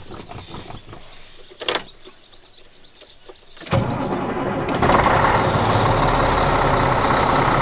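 Volvo D12 inline-six diesel in a 2000 Volvo semi being started: a click, then about two seconds later the starter cranks briefly. The engine catches right away and settles into a steady run.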